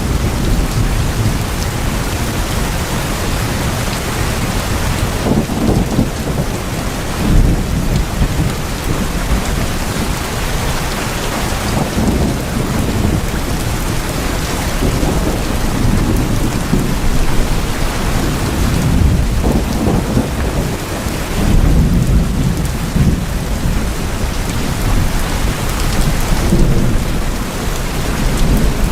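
Heavy rain drumming steadily on tin roofs, with a deep low rumble that swells several times.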